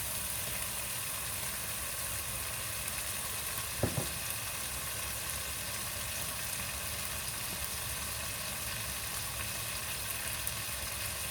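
Spice masala with tomato puree frying in oil in a pan, a steady sizzle. Two sharp knocks come close together about four seconds in.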